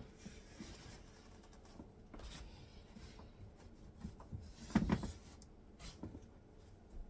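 Hand wiping around a dishwasher door: soft rubbing and scattered light knocks, with one louder knock about five seconds in.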